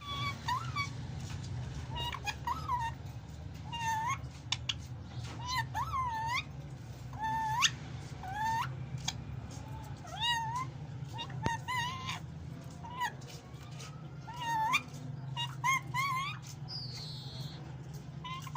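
Indian ringneck parakeet calling and babbling: a string of short, swooping, squeaky calls, some of them meow-like, over a steady low hum.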